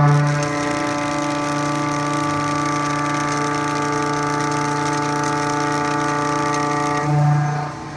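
Haas VF-2SS CNC mill cutting S355 structural steel, giving a steady pitched ring with many overtones. It starts suddenly, holds level, swells briefly and stops shortly before the end.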